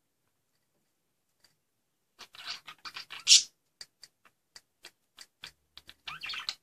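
A budgie scratching and rustling, followed by a run of sharp clicks about three a second, like a beak tapping or feet gripping on the cage. A second scratchy burst comes near the end.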